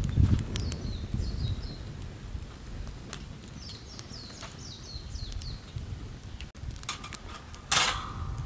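A small bird calls in two quick runs of short falling chirps, over scattered sharp crackles from a wood fire. A brief, louder rustling scrape comes near the end.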